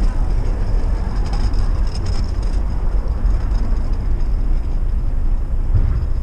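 Excursion passenger train running along the track, heard from aboard: a steady low rumble of the car and wheels on the rails.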